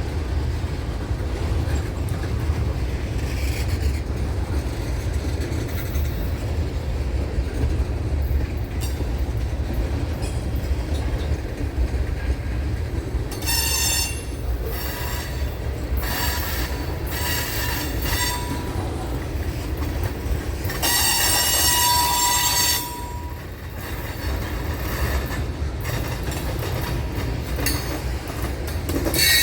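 A train rolling past with a steady low rumble. From about halfway through its wheels squeal in several high-pitched bursts, the longest lasting about two seconds.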